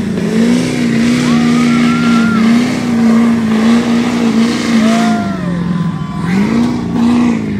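A vehicle engine revving hard and held at high revs, its pitch wavering, dropping briefly about six seconds in and climbing again.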